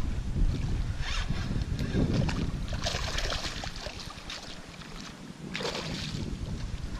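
Wind buffeting the microphone as a low rumble, easing off for a moment about four seconds in, with brief hissing, rustling noises now and then.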